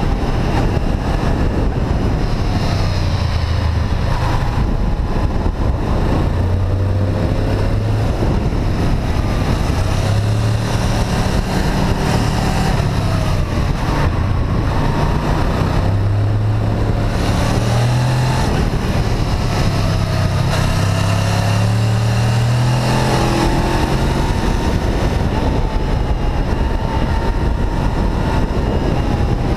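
Honda VFR800 V-Tec's V4 engine running as the motorcycle is ridden, its pitch rising and falling over and over with throttle and gear changes.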